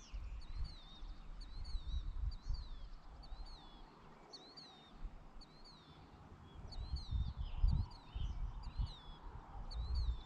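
A small songbird repeating a short, high chirp over and over, with intermittent low rumbling underneath that fades in the middle and returns after about seven seconds.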